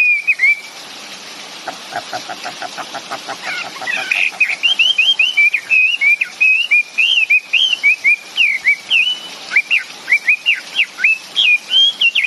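Songbird singing loud, clear whistled notes that sweep up and down in quick repeated phrases. After a short pause near the start, a fast, quieter rattle of about seven pulses a second comes before the song resumes strongly.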